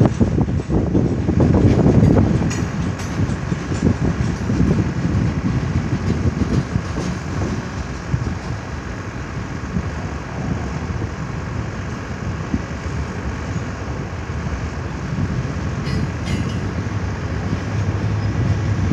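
CN train rolling past on the rails: a steady rumble of wheels on track, loudest in the first couple of seconds.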